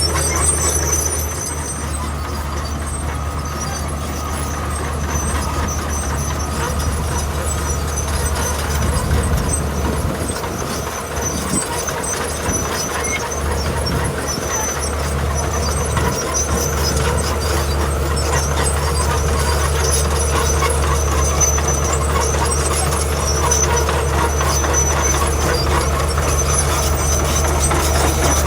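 Heavy diesel construction machinery running steadily under load, a deep engine drone that swells a little around the middle.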